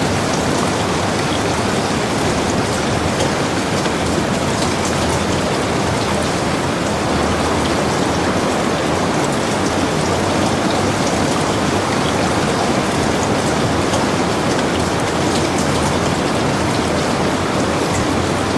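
Heavy rain falling steadily, a dense even hiss with scattered fine drop ticks.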